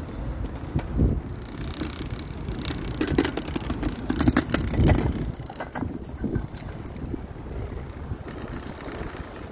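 Outdoor street noise: a low rumble with scattered knocks and clatter, busiest around the middle.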